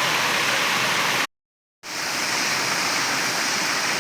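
Waterfall pouring steadily. Just over a second in it cuts out to complete silence for about half a second, then fades back in.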